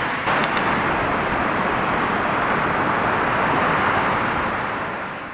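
Subaru STI engine and exhaust running steadily as a broad, even rumble that dips briefly just after the start and fades out at the end.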